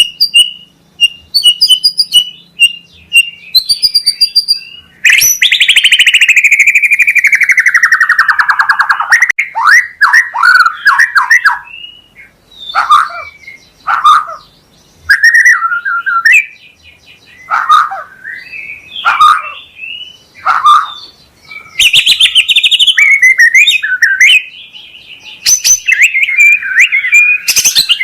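White-rumped shama (murai batu) singing a varied song: strings of short high notes, a long loud note that slides down in pitch, quick separate phrases, and a loud harsh burst about two-thirds of the way through.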